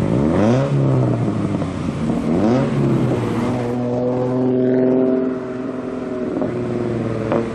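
Car engine revving, its pitch climbing sharply twice in quick succession and then holding a steadier note for a couple of seconds.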